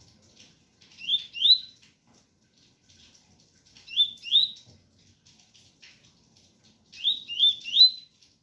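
Double-collared seedeater (coleiro) singing the tui-tui song: three short phrases of two or three quick rising whistled notes, about three seconds apart.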